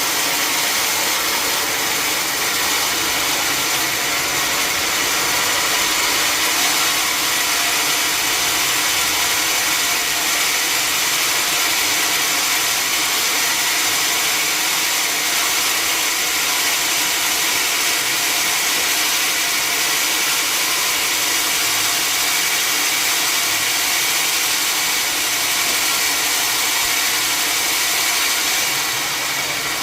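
Sawmill saw machinery running steadily: a loud, dense mechanical noise with several steady whining tones. It eases slightly near the end.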